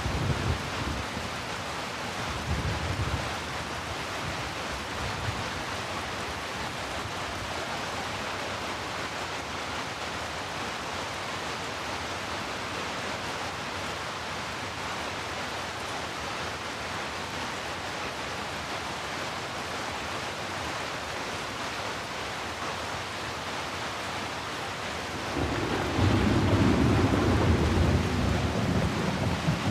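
Heavy rain falling in a steady hiss, with brief low rumbles of thunder in the first few seconds. A long, louder roll of thunder comes in near the end.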